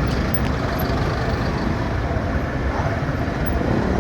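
Steady rumble of a motorcycle ride in city traffic, with engine, wind and road noise blended together and heaviest in the low end.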